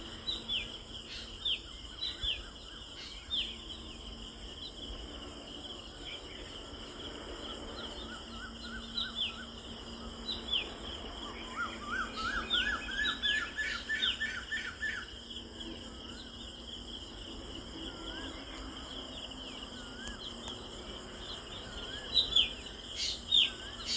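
Birds chirping, with many short, sharp, down-slurred chirps and a quick run of rising notes in the middle, over a steady high drone of insects.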